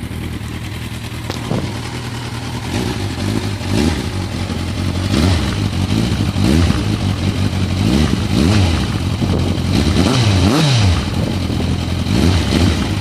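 2008 Suzuki GSX650F's inline-four idling through a Scorpion Red Power slip-on exhaust with its dB killer baffle still fitted. About three seconds in it is revved repeatedly with the throttle, the pitch rising and falling each time, then settling back toward idle near the end.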